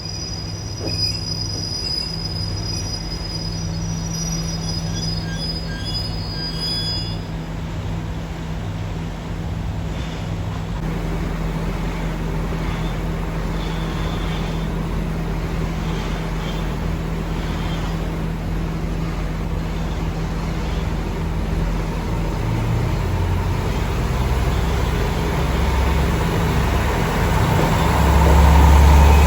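A train running on rails, with a thin high squeal or whine for the first several seconds over a steady low rumble. The rumble grows louder toward the end.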